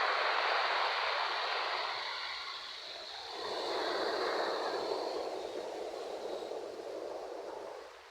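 Ocean surf washing onto a beach: a steady hiss of breaking waves that swells, eases about three seconds in, swells again and falls away near the end.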